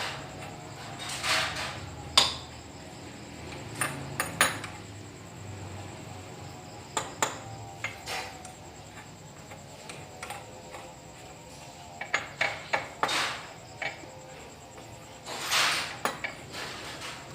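Intermittent metal clinks, knocks and short scrapes of tools and parts being handled while a manual cylinder boring machine is set up; the machine itself is not running.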